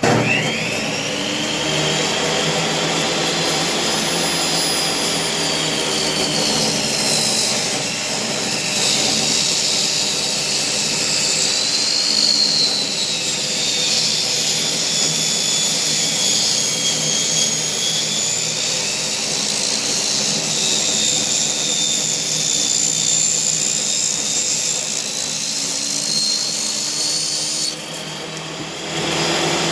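Table saw motor starting up with a quick rising whine, then running at speed while ripping the edges off boards to even them, its whine wavering as the cut loads the blade. The sound dips briefly near the end, then picks up again.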